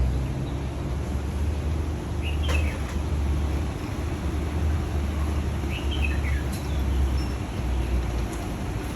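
A bird calling twice, short falling chirps about two and a half and six seconds in, over a steady low rumble.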